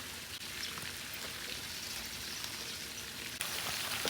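Steady patter of rain, a fine even hiss of drops, stepping up a little louder near the end.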